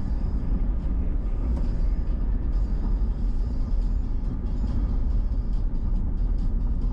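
Steady low road rumble of a vehicle driving, with music that has a steady beat playing over it.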